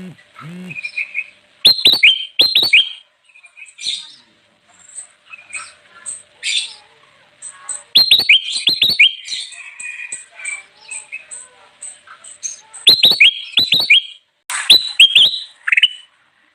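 Kutilang emas (ruby-throated bulbul) singing loud, vigorous song. About four bursts of quick, sharp notes each sweep downward, with softer high chirps in between.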